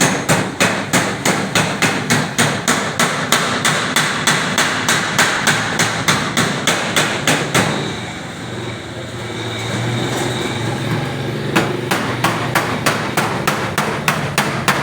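Rapid, even hammer blows on the sheet iron of a metal trunk, about three to four strikes a second. They stop for a few seconds partway through, then start again.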